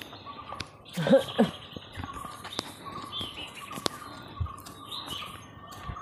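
Small birds chirping in forest undergrowth, with scattered light footsteps on a dirt path. The loudest sounds are two short, low, bending calls about a second in.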